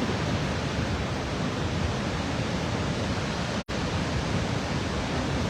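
Steady rushing of a large waterfall, a dense even roar with no distinct tones. It cuts out for an instant about three and a half seconds in.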